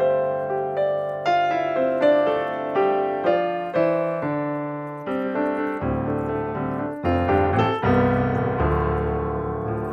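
Background piano music: a melody of single piano notes, fuller and lower in the second half.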